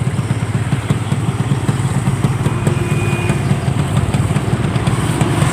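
Yamaha RX-King two-stroke single-cylinder motorcycle engine running steadily with a rapid, even pulsing.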